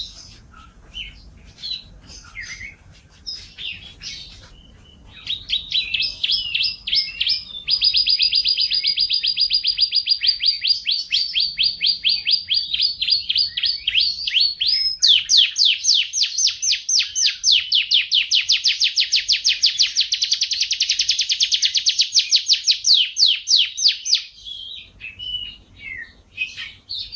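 F1 domestic canary singing: scattered chirps, then about five seconds in it breaks into long, very fast trills of rapidly repeated high notes lasting nearly twenty seconds, falling back to scattered chirps near the end.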